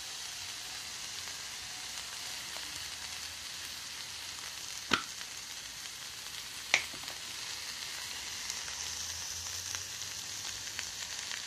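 Onions, garlic and chopped coriander sizzling gently in a stainless steel frying pan on low heat, a steady hiss. Two sharp clicks break in, about five seconds in and again nearly two seconds later.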